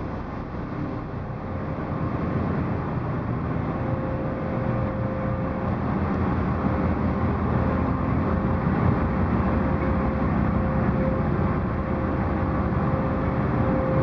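Ferry engine running steadily: a low, even drone with a held tone over it, getting a little louder about two seconds in.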